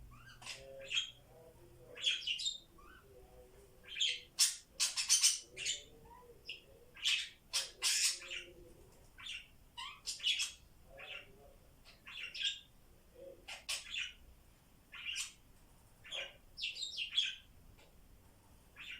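Pet budgies chirping and squawking in short, sharp calls, one every second or so, with soft low warbling chatter between them.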